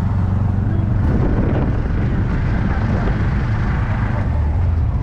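Steady low drone of a vehicle's engine, heard from on board while it moves.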